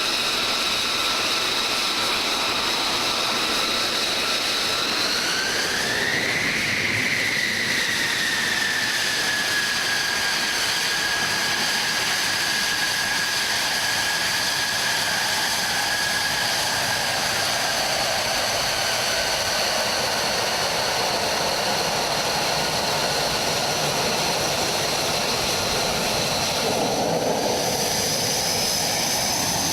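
F-35B's Pratt & Whitney F135 jet engine running at high power, a steady jet roar with a high whine over it. The whine climbs in pitch about five seconds in, then eases back and holds steady, shifting again near the end.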